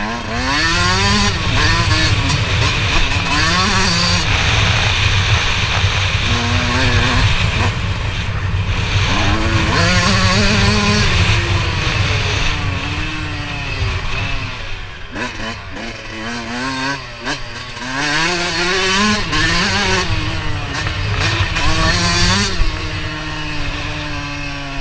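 Motocross dirt bike engine revving hard, its pitch climbing and dropping over and over as the throttle opens and closes and the gears change.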